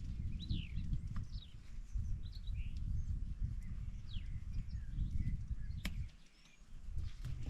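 Wild birds chirping and singing in short calls that glide up and down in pitch, over a low rumbling noise that drops away about six seconds in. A sharp click comes just before that and another near the end.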